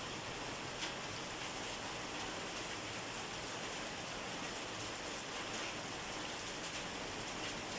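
Steady rain falling, an even hiss of drops with a few slightly louder single drops, one of them about a second in.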